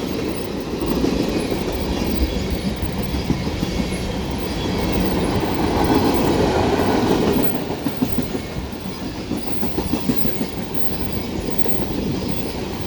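Train cars rolling past close by: a steady rumble with wheels clacking over the rail joints, easing off a little about two-thirds of the way through.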